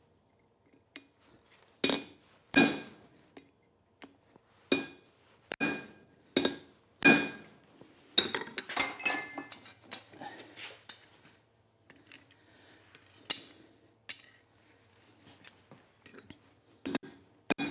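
Hand hammer striking a punch on hot steel flat bar at the anvil to put a hole through it: single ringing metallic blows, spaced irregularly a second or two apart. About halfway through comes a quick run of lighter, high-ringing clinks of metal on metal.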